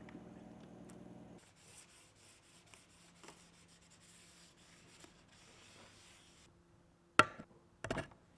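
Faint rubbing strokes against a surface, then a sharp knock about seven seconds in followed by a couple of smaller clatters.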